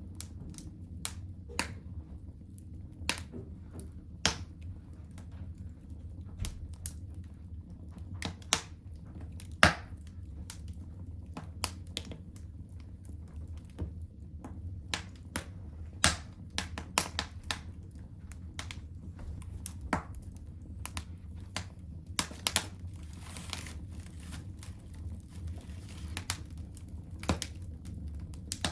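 Wood fire burning in a home fireplace, crackling with irregular sharp pops over a steady low rumble of the flames.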